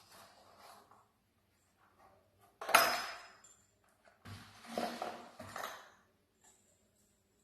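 Hard objects knocked and handled: one sharp clink about three seconds in, then a second stretch of clinking and rattling.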